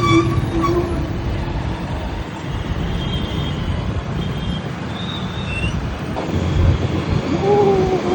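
Motorcycle engine and road rumble while riding through traffic, with a few brief higher tones over it midway and a short gliding tone near the end.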